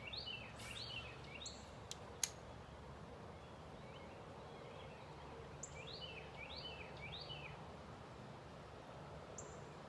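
Birds calling in two quick series of short, high, falling chirps over faint low outdoor background noise, with one sharp click about two seconds in.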